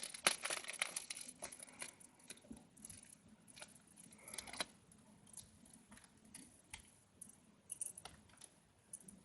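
Hands handling small hard items and packaging: scattered light clicks and clinks with brief rustles of plastic wrapping.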